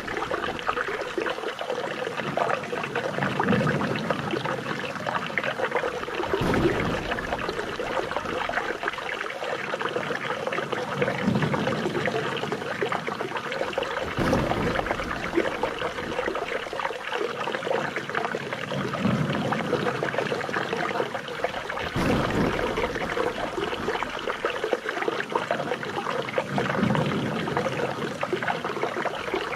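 Flowing water trickling and splashing steadily. The same stretch repeats about every eight seconds.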